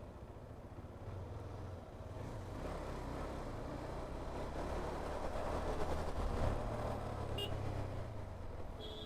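Truck traffic in a jam: a steady low engine rumble that grows louder past the middle, then eases. A short high beep comes a little before the end.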